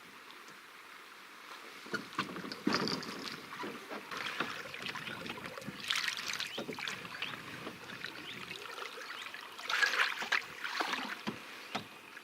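Canoe paddling: irregular paddle strokes splashing and dripping in the water, with short knocks among them.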